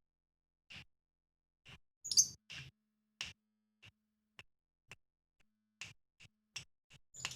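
A songbird giving short, sharp chip calls at uneven intervals, about fifteen in all, with one higher, louder call about two seconds in.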